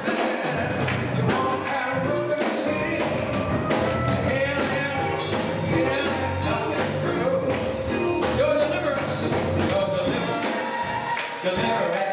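Gospel choir singing with instrumental accompaniment, a tambourine keeping a steady beat.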